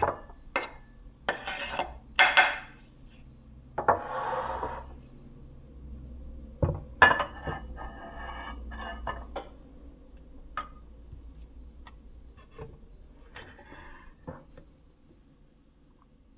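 Kitchen dishes and utensils clinking and knocking, with short scraping or rustling sounds between the clinks. The sounds come thick and loud in the first half and grow fewer and quieter toward the end.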